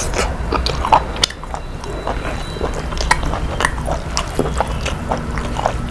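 Close-up chewing and eating sounds: irregular wet mouth clicks and bites, over a steady low hum.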